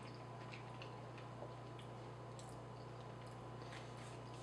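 Faint chewing of a mouthful of chicken pasta, with small soft irregular clicks, over a steady low hum.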